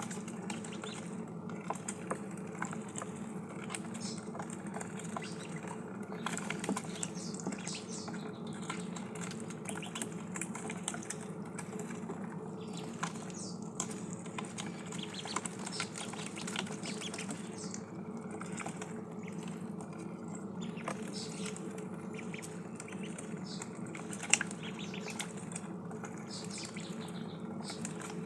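Ducklings dabbling their bills in water and feed: a quick, irregular patter of small clicks, slurps and splashes over a steady low hum.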